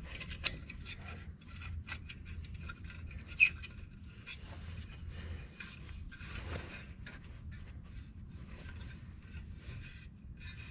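Hands working a tractor headlight's bulb and retaining clip: steady rubbing and scraping with many small clicks, and a few sharper clicks, the loudest about half a second in and about three and a half seconds in.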